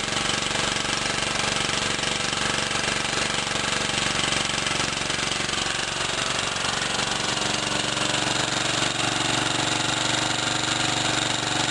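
Briggs & Stratton small engine running steadily on wood gas from a pellet-fuelled gasifier.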